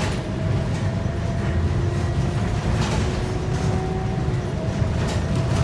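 Scania K230UB bus under way, heard from inside: its 8.9-litre five-cylinder Scania DC9 diesel and ZF six-speed automatic running with a steady low drone and a faint steady whine, with a few short body rattles.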